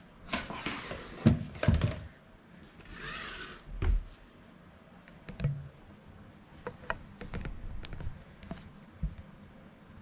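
Hands handling the unboxed Roomba and its packaging: scattered knocks, thuds and clicks, heaviest in the first two seconds, with a brief rustle about three seconds in.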